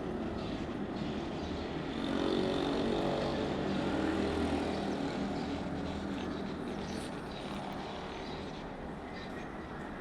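A distant engine drone with a faint steady hum, growing louder about two seconds in and slowly fading over the last few seconds.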